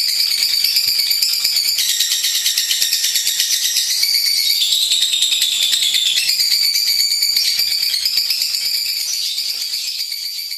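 Lovebird singing a long, unbroken chatter of very rapid, high-pitched chirps whose pitch shifts up and down in steps, tapering off slightly near the end.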